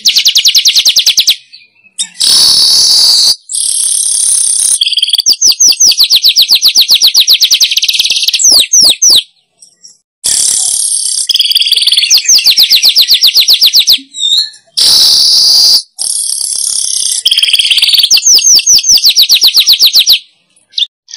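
Manyar weaver song played as a lure call: loud phrases of rapid, dry chirps running into harsh, wheezy buzzing. The phrases repeat about every four to five seconds, with short pauses between them.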